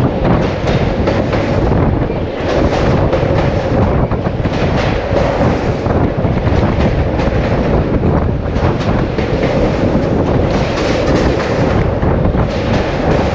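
Indian Railways passenger coaches running over a railway bridge, heard from a coach window: a steady rumble of wheels on rail with rapid, irregular clicking as the wheels pass over rail joints.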